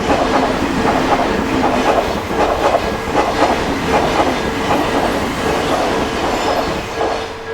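Odakyu electric train passing over a level crossing, its wheels clattering over the rails, fading near the end. The crossing's warning bell keeps ringing underneath.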